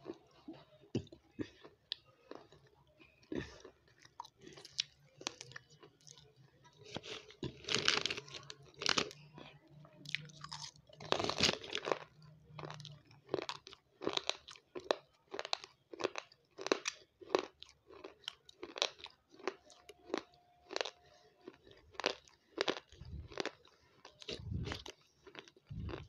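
Close-miked crunching and chewing of dry, crunchy crumbles: sharp, irregular crunches about one or two a second, loudest about 8 and 12 seconds in.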